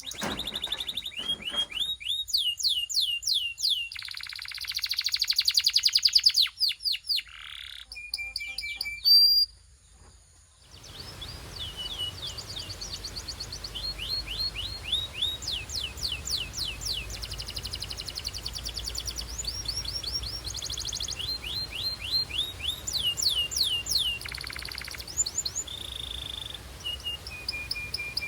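Belgian canary singing in fast trills and rolls of repeated falling whistled notes. The song breaks off briefly about ten seconds in, then carries on over a steady low background hiss.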